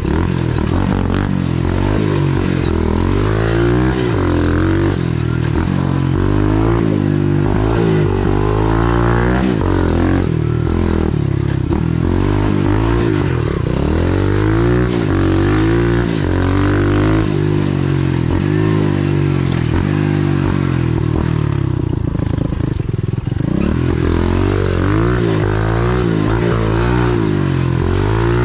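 125cc pit bike engine revving up and easing off again and again while being ridden along a trail, its pitch rising and falling every second or two.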